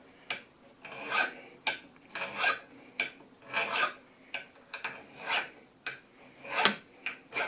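A hand file rasping around the end of a brass punch in about a dozen short strokes, dressing the punch's battered, bunged-up tip back into shape.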